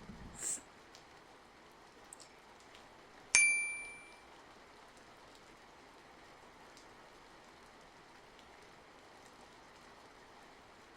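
Steady light rain. About three seconds in comes a single bright ding that rings out and fades over about a second.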